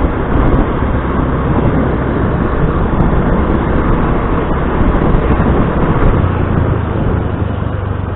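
Motor scooter ride: wind buffeting the microphone over the scooter's engine and road noise, a steady rushing with a low hum that firms up about six seconds in.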